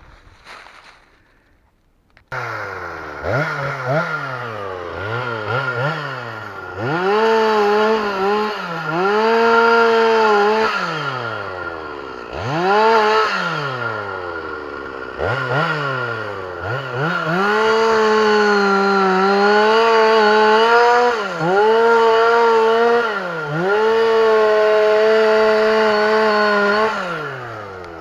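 Two-stroke chainsaw starting up about two seconds in and revving up and down repeatedly, held at high revs for several seconds at a time with slight sags, as when cutting a felled tree, then winding down to idle near the end.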